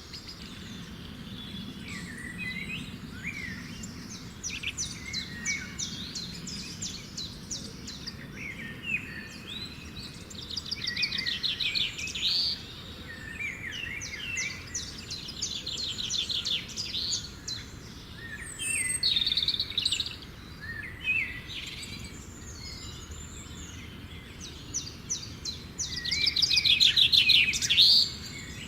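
Wild birds singing and chirping, with repeated fast trills and short rising and falling calls; the loudest trill comes near the end.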